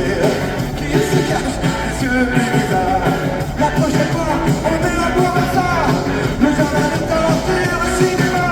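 Live rock music from a band playing on stage, with guitars, drums and a singing voice over them.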